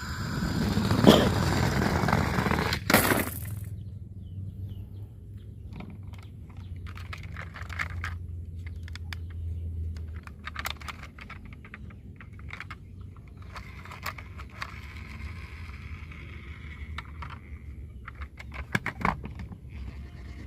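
Toy cars being handled: a loud scraping rush for the first three seconds or so, then scattered clicks and rattles of small hard pieces knocking together.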